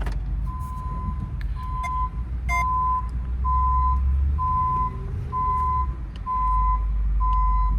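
Pickup truck's back-up alarm beeping about once a second as the truck reverses, over the engine running low. A sharp click right at the start.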